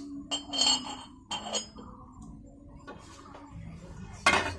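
Tableware clinking: a few light clinks with a brief ringing tone in the first two seconds, then a louder clatter near the end.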